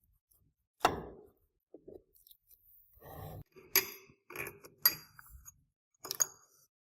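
Metal parts being handled and set down on a hard surface: a handful of sharp clinks and knocks, with a short rustle between them.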